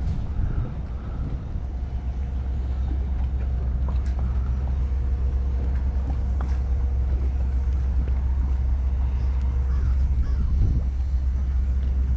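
Steady low rumble with a faint steady hum over it, a few faint ticks around the middle.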